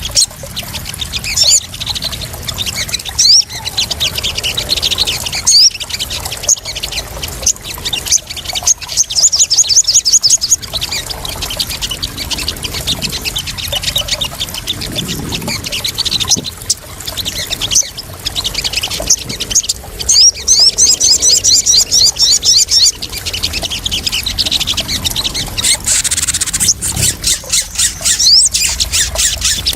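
Crimson sunbirds (sogon) calling in rapid, high-pitched chittering trills, repeated in runs over a continuous sound of splashing, trickling water.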